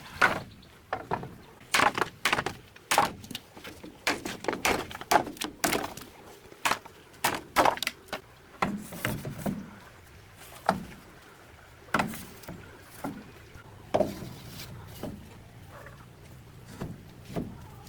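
A quick, irregular run of knocks and clatters, as of hard objects being handled and set down, thinning out in the second half.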